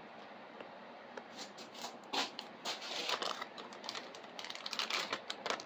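Plastic packaging crinkling and rustling as it is handled, in two spells of a couple of seconds each.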